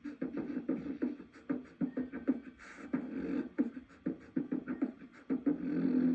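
Vocal beatboxing: quick rhythmic mouth percussion with voiced hums, ending on a held hummed note.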